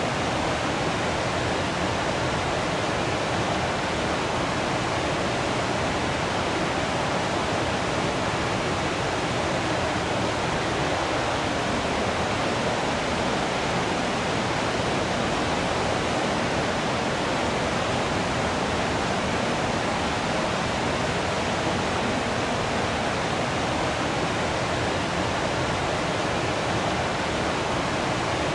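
Waterfall: water falling and flowing in a steady, unbroken rush.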